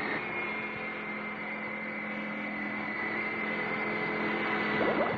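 Cartoon sound effect of a racing boat's motor: a steady humming drone with a high whine over it, and a few rising sweeps near the end.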